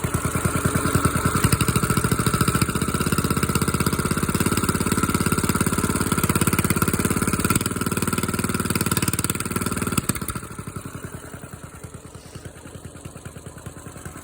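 Carbureted engine running just after a cold start, firing steadily; its carburetor was filled with fuel until it poured out to get it to fire. About ten seconds in it drops to a noticeably quieter, steady run.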